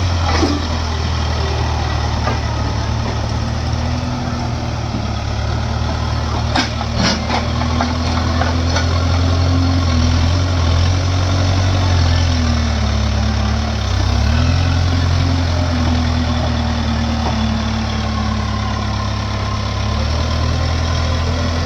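Heavy diesel engine running steadily, its pitch rising and falling a little, with a few sharp clanks about six to seven seconds in.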